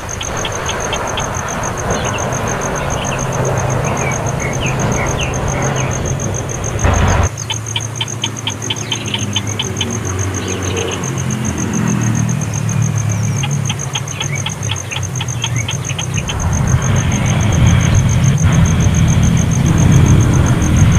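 An engine running steadily, with three short trains of rapid high chirps, about seven a second, at the start, about eight seconds in and about fourteen seconds in.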